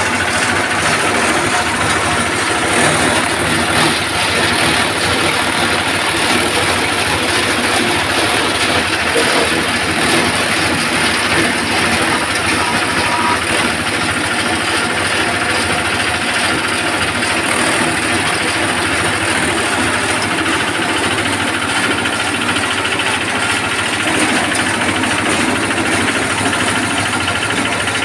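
Engine-driven forage chopper running steadily while shredding corn leaves.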